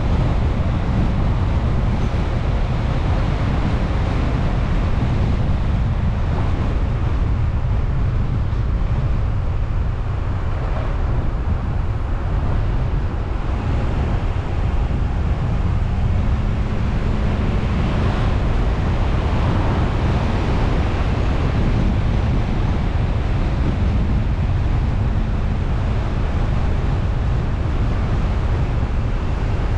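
Car driving, heard through a car-mounted GoPro: a steady, loud rumble of wind on the microphone mixed with road and engine noise.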